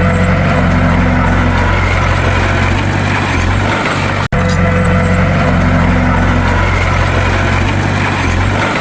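Bulldozer's diesel engine running steadily with a deep, even drone. It cuts out for an instant about four seconds in, and the same stretch of engine sound seems to repeat after the break.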